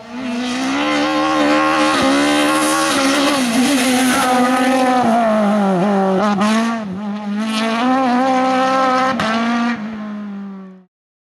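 Racing car engine at high revs on a hill-climb run, its pitch falling and climbing again several times as the driver works through the gears, with a few sharp cracks. The sound cuts off abruptly near the end.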